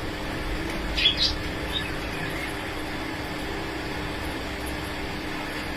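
Breeding cage birds giving a few short high chirps about a second in, over a steady background hum.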